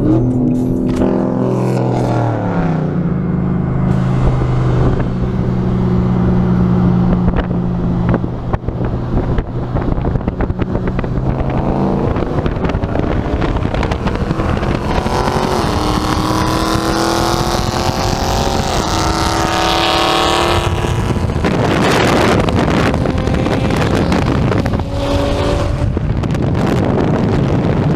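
Car engines running close by: one engine note drops and holds steady, then rises in pitch again and again with short drops between, as a car accelerates hard through its gears, followed by a loud rush of engine and road noise.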